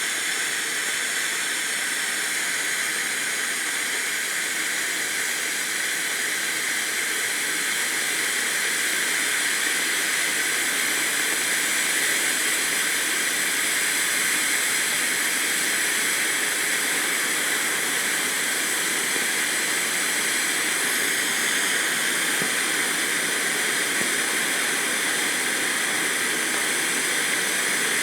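Tai Pan Krakatoa cone fountain firework burning with a steady, loud hiss of spraying sparks, swelling slightly about ten seconds in.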